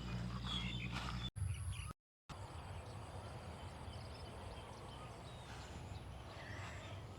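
Faint outdoor farm ambience with scattered distant bird calls, broken by an edit cut and a brief dropout about two seconds in.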